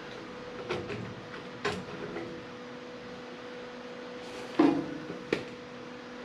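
A handful of scattered knocks and clanks, the loudest about four and a half seconds in with a short low ring, over a steady electrical hum.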